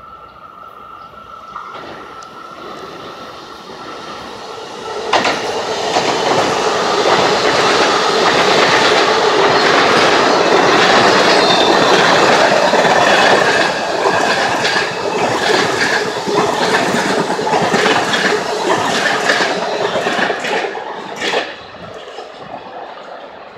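A train passing close by a station platform: the sound builds as it approaches, then turns suddenly loud about five seconds in, with wheels clacking over rail joints and some wheel squeal. It cuts off sharply near the end as the last car goes by.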